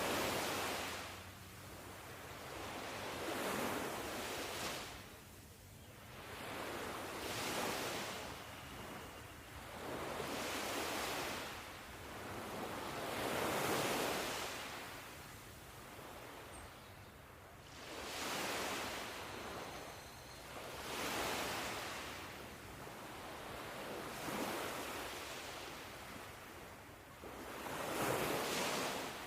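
Ocean surf: waves wash in and draw back in a steady rhythm, one swell about every three to four seconds.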